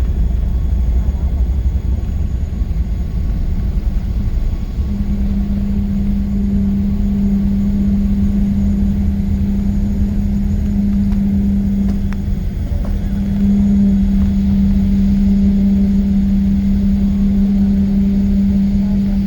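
Boeing 777-300 cabin noise: a steady low rumble of engines and airframe. A constant low hum joins about five seconds in, breaking off briefly around the middle.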